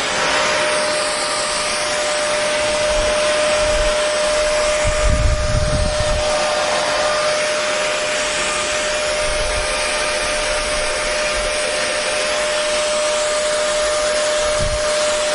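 Hair dryer running continuously: a steady airy hiss with a constant motor whine, and a brief low rumble about five seconds in.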